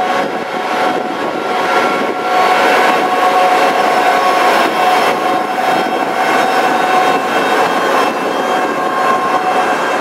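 Passenger coaches of an arriving express train rolling slowly past at the platform. A steady rumble of wheels on rail runs under several high, held squealing tones.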